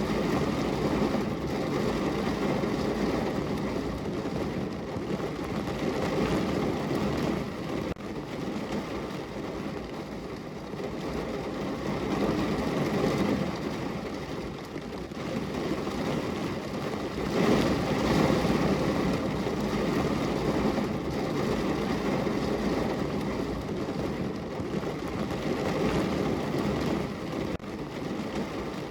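Heavy rain falling on a car's roof and body, heard from inside the cabin: a dense, steady patter that swells and eases every few seconds.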